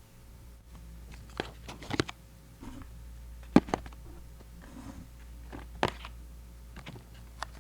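Close-miked ASMR trigger sounds: a scattered series of soft clicks and taps, with a sharper click about halfway through.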